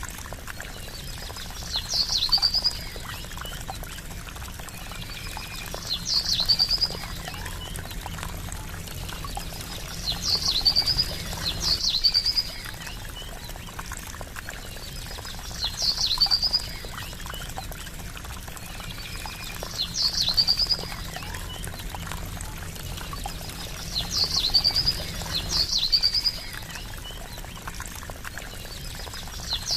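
Steady trickling water with a small bird calling over it about every four seconds. Each call is a sharp, high note sweeping down, then a quick trill, and these calls are the loudest sounds.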